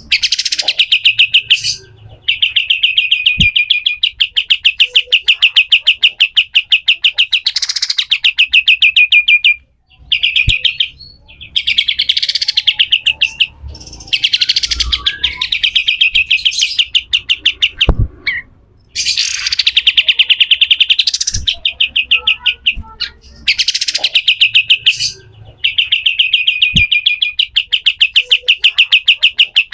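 Pied triller (kapas tembak) singing its harsh rattling song: long, fast trills of rapidly repeated notes, each lasting a few seconds, with short breaks between them.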